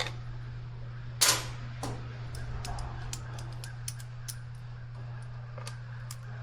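Hand tools clinking on metal as bolts are worked loose: one sharp clank about a second in, then scattered light metallic ticks, over a steady low hum.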